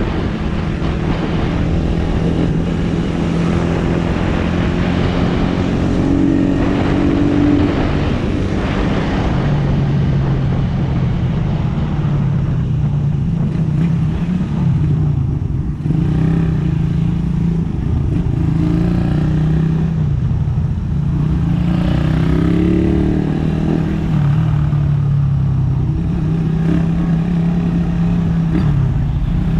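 Suzuki Raider R150 motorcycle's single-cylinder four-stroke engine running on the road, its pitch rising as the revs climb about five seconds in and again a little past twenty seconds in.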